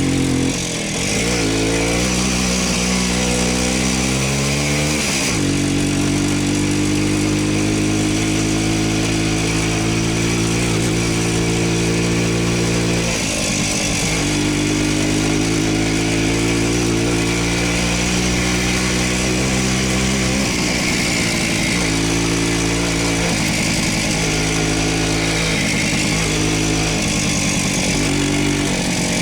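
Voskhod motorcycle's two-stroke single-cylinder engine running under way. Its pitch climbs as it pulls and drops sharply at gear changes, about five and thirteen seconds in, then several times in quicker succession in the second half.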